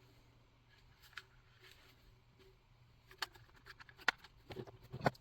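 Light clicks and taps of hands working a new fuel line and filter into a chainsaw fuel tank, with a few sharper clicks in the last two seconds.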